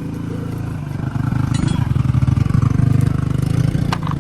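Tractor engine running with a steady low beat after starting, its speed picking up around the middle and then easing back.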